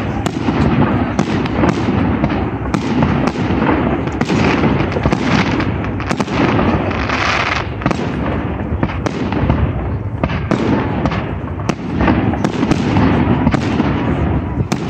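Aerial fireworks display: shells bursting in a rapid, unbroken run of bangs over a continuous crackle.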